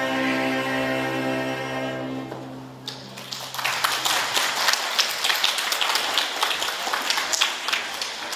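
A children's string ensemble holds and releases its final chord, which fades out in the hall's reverberation. About three seconds in, the audience starts applauding and keeps clapping.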